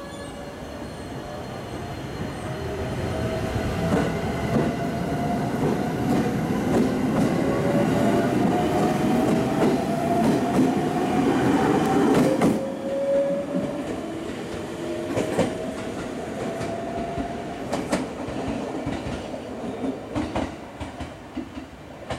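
JR East E127 series electric train pulling away and accelerating. The motor whine climbs slowly in pitch, drops back about halfway through, then climbs again. Wheels click over the rail joints now and then. The sound grows louder until about halfway, then fades as the train draws off.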